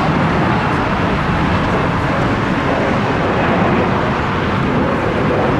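Steady jet noise from an Airbus A340-300's four CFM56 turbofans, a loud even rush with a faint hum underneath.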